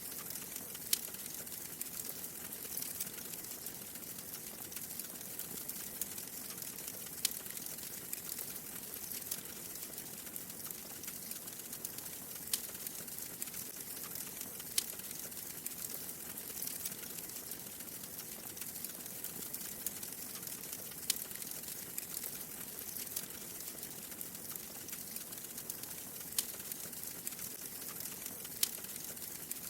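Wood fire crackling in a fireplace: a steady soft hiss with scattered sharp pops and snaps at irregular intervals.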